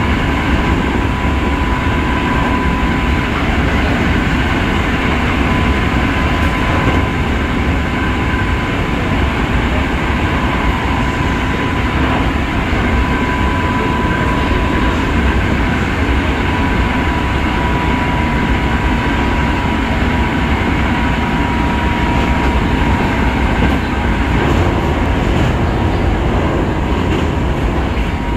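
Hankyu 5300 series electric train running at speed, heard from inside the passenger car: a steady rumble of wheels and running gear, with a thin steady whine above it.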